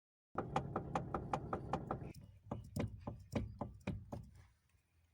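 Clunking knocks from a Kia's electric power steering column (MDPS), the sign of a worn rubber steering coupler. The knocks come fast and even, about five a second, for the first two seconds, then slower and irregular, dying away near the end over a low hum.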